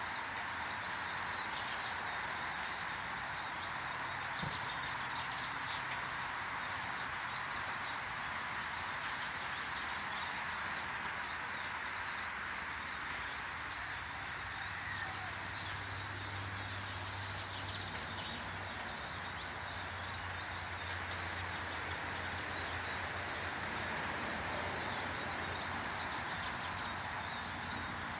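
Small garden birds chirping at a bird table, short high calls scattered throughout over a steady outdoor hiss. A low hum comes in about halfway through and carries on.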